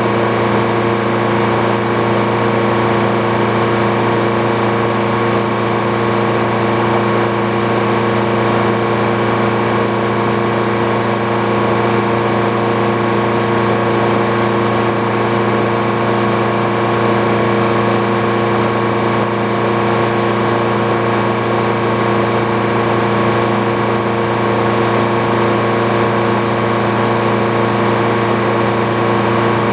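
The engine powering an old Frick sawmill running at a steady speed, with an even, unchanging hum.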